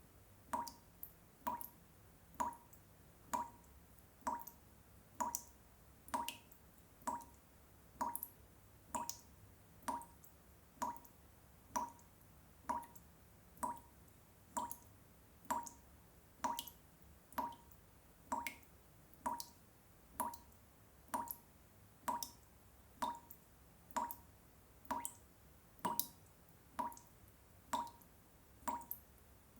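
Water drops falling one after another at a steady, even pace, each a short plink.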